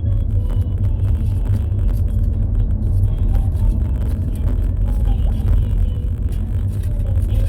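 Car cabin road and engine noise while driving: a steady, loud low rumble.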